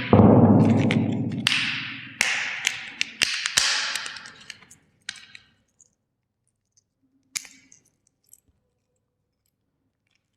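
Plastic toys cracking and snapping as they are crushed: a quick run of sharp cracks, each ringing out for a second or two. They thin out after about four seconds, with a single loud crack near the middle and then quiet.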